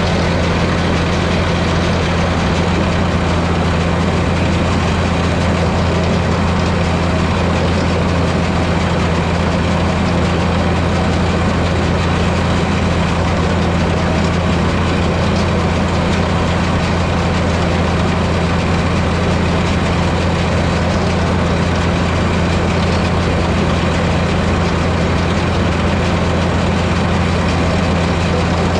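International 1066 tractor's turbocharged six-cylinder diesel running at a steady speed, a constant low drone that does not change.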